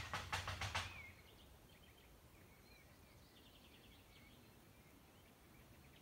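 A loud burst of rapid clicks or knocks, about seven in under a second, at the start. Then faint wild bird chirps and calls, with a short quick trill midway.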